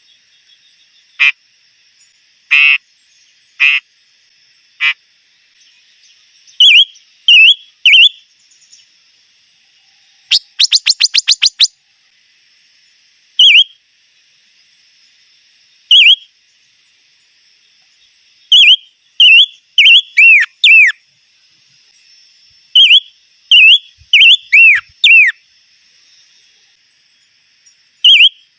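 A songbird, the 'chim ngũ sắc' (five-coloured bird), calling in short, clear whistled notes, many with a quick downward hook, given singly at first and then in quick groups of two to four. Around the middle comes one fast run of about eight sharp notes.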